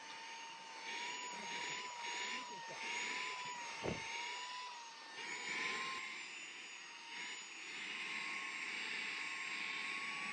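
SAKER 3-in-1 mini handheld vacuum's brushless motor running with a steady high whine that wavers slightly in pitch, the rush of its suction swelling and easing as it is worked over the floor. One thump about four seconds in.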